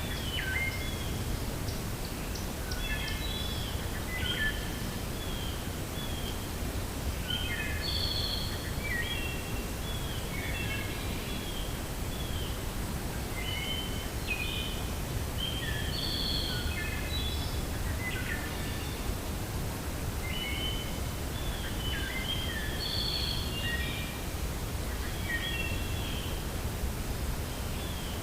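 Steady low rumble of wind, with songbirds singing repeated bouts of quick chirps and short downward-sliding notes every few seconds.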